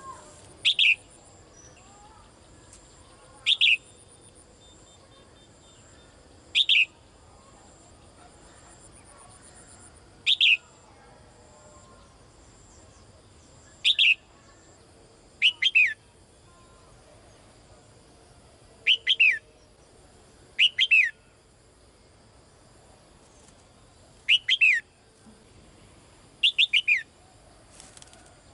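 Caged female songbird calling to a male: a short, falling call repeated every few seconds, some given as quick pairs or triplets.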